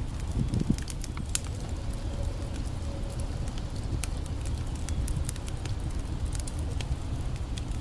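Wood campfire crackling, with scattered sharp pops and snaps, over a steady low rush of a creek.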